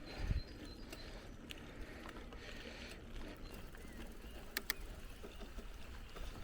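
Bicycle rolling along a forest track: steady tyre noise on the ground, with sharp rattling clicks from the bike, two close together past the middle, and a low thump near the start.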